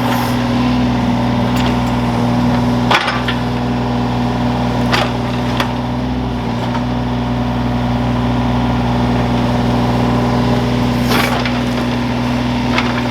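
Excavator engine running steadily, with a few sharp knocks from the digging, the loudest about three seconds in.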